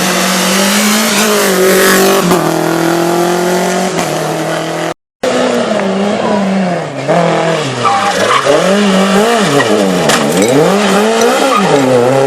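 Renault Clio rally car's engine revving hard: the revs climb, drop at an upshift about two seconds in and climb again, then after a brief break the revs swing rapidly up and down several times, as when braking and downshifting into corners.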